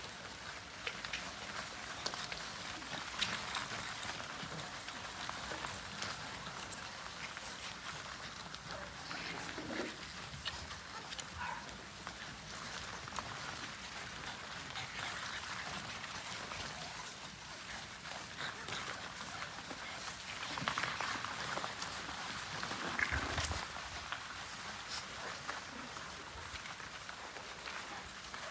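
French Bulldog puppies moving about and making small dog noises, with many light clicks and scuffles throughout. A few brief, louder cries come about three quarters of the way through.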